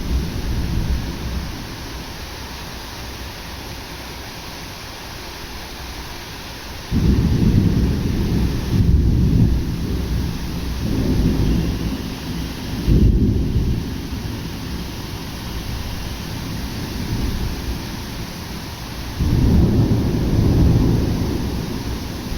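Thunderstorm: rain falls steadily while thunder rolls, a deep rumble breaking in suddenly about seven seconds in and rolling on for several seconds, then another rumble starting abruptly near the end.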